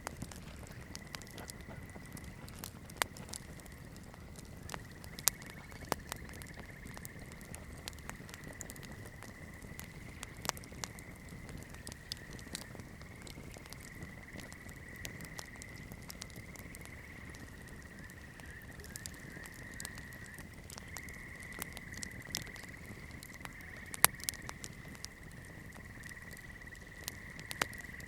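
Wood fire burning, with sharp crackles and pops scattered irregularly over a low rumble. A thin, steady high whistle wavers underneath, and there is one louder pop near the end.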